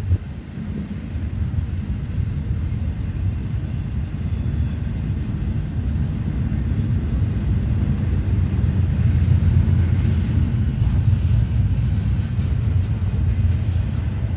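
Freight train running past with a steady low rumble that slowly grows louder.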